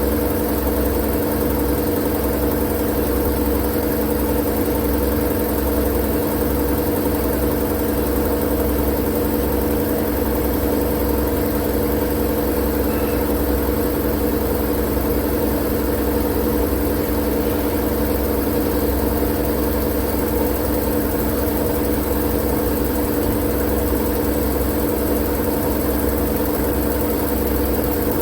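Continuous white-noise sleep sound: a steady, unchanging hiss with a constant low hum underneath, like a running motor.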